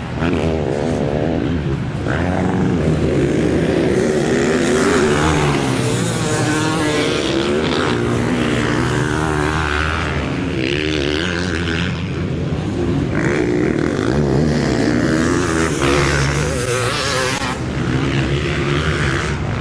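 Several motocross bikes racing, their engines revving hard with the pitch rising and falling again and again as the riders work the throttle and shift through the sections.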